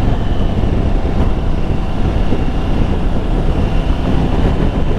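Steady noise of a motorcycle being ridden, engine and wind together, holding an even pace.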